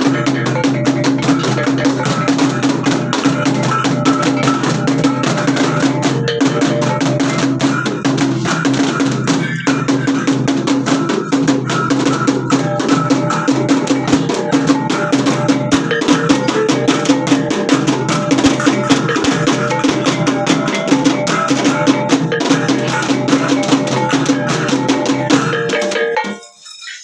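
Traditional percussion music: fast, dense drumming with steady ringing tones over it, which stops abruptly shortly before the end.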